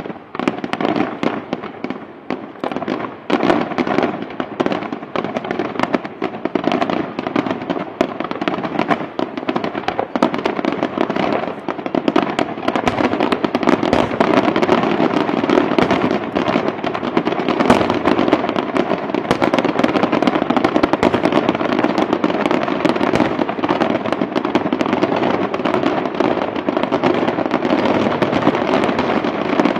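Fireworks display: a dense, rapid barrage of shell bursts and firecracker bangs with no gaps, growing denser and louder about halfway through.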